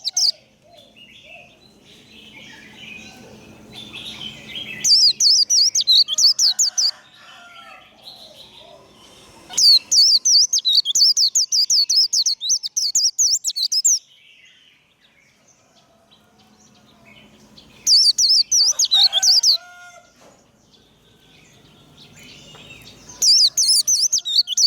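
White-eye (vành khuyên) singing its rapid, high 'líu' warble in four bursts of a few seconds each, with quiet chirps between.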